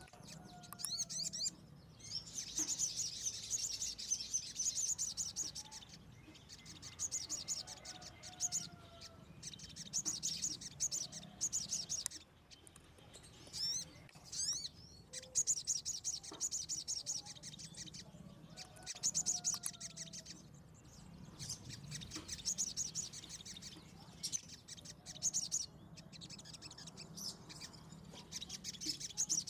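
Kemade (cigen), a small Indonesian wild songbird, singing: bursts of rapid, high twittering a few seconds long, repeated again and again. Fainter, lower descending whistles come in between.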